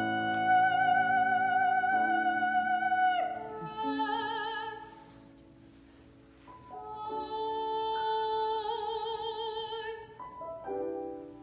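A classical female voice singing an art song with piano accompaniment: a long high note with wide vibrato, a brief soft pause where the piano carries on, then another long held high note over piano chords.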